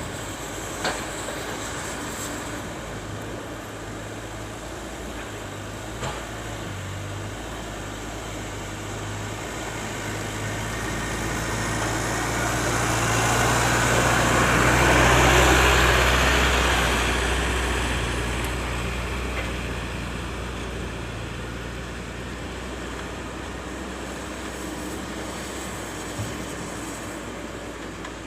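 Diesel engines of heavy earthmoving machinery running steadily, swelling to their loudest about halfway through and then fading back down, with a few light knocks.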